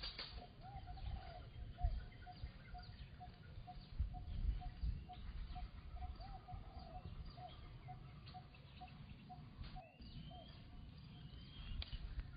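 A bird repeating a short, even note about two to three times a second, with other bird chirps over a low rumbling background. The repeating note stops near the end.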